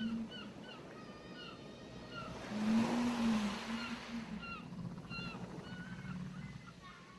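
A wave washing up the shore, swelling about three seconds in, under many short bird chirps. A low, arching moan, a whale call, sounds alongside the swell.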